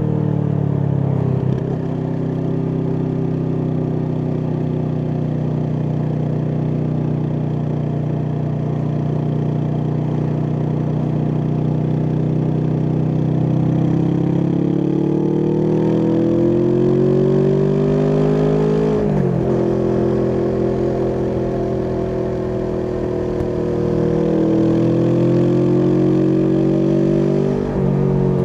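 Kawasaki Vulcan S 649 cc parallel-twin engine through an Arrow aftermarket exhaust, running at steady revs, then climbing in pitch under acceleration. The pitch drops sharply at a gear change about two-thirds of the way through. It climbs again and drops at another shift near the end.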